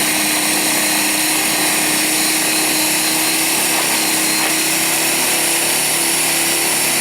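Blizzard Ex1600win electric snowblower running steadily: a constant motor whine over an even rushing noise.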